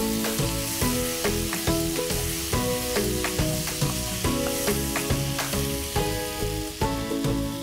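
Chopped tomatoes and onions sizzling in a frying pan while a wooden spatula stirs and scrapes through them, with instrumental background music of held notes underneath.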